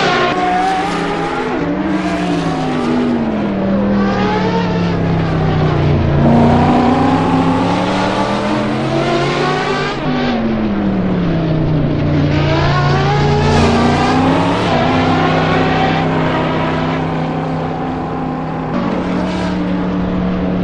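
Race car engine at speed, its pitch repeatedly climbing as it accelerates and dropping sharply when it lifts or shifts, with a steady stretch near the end.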